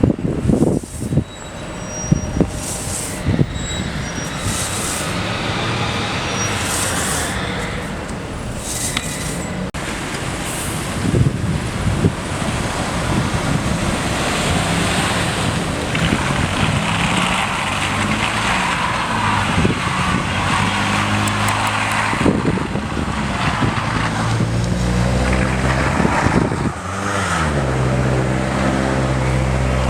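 City street traffic: cars and trucks passing in a steady wash of road noise. Near the end a vehicle's engine note rises and falls in pitch.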